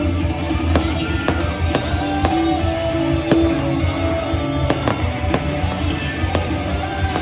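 Fireworks going off in irregular sharp bangs and pops over loud music with a steady bass beat.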